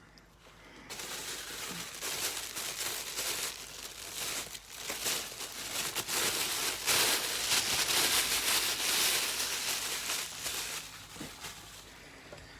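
Packaging crinkling and rustling as it is handled, a dense run of crackles that starts about a second in and dies down near the end.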